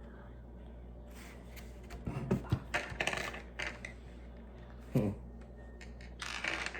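Small plastic Lego pieces clicking and rattling as they are handled and pressed together, in clusters of quick clicks after a quiet start, with a duller knock about five seconds in and another rattle near the end.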